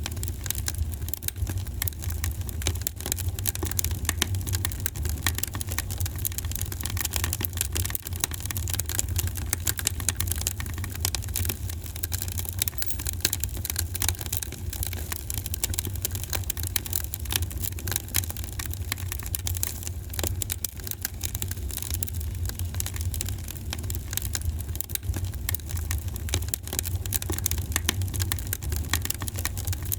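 Wood fire in a fireplace crackling with dense, irregular pops and snaps over a steady low rumble.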